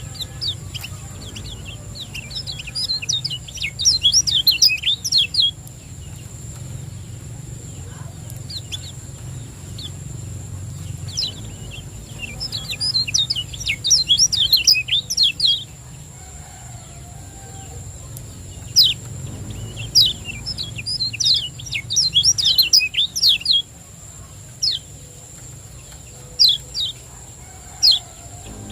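Kecial kuning, a Lombok white-eye, singing its fast 'ciak joss' song: three bouts of rapid, tightly packed high chirps a few seconds long, with single sharp call notes between them near the end. A steady low hum and a thin high whine run underneath.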